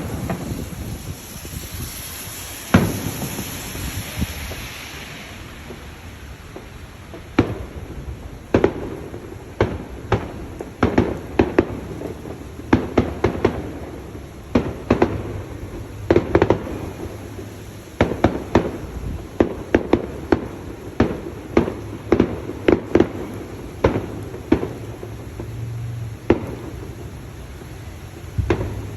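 Irregular sharp knocks and bangs, often in quick clusters of two or three, over a steady rushing background, with a brief hissing swell a few seconds in.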